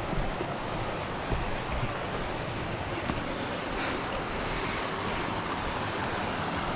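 Steady rushing of water where the stream runs over the top of the waterfall, with wind buffeting the microphone.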